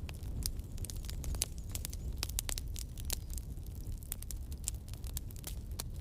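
Campfire burning, with a steady low rumble and many sharp, irregular pops and crackles of burning wood.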